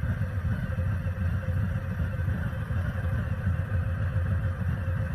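A car on the move, heard from its own dashcam: a steady low rumble of road and engine noise with no sharp impacts.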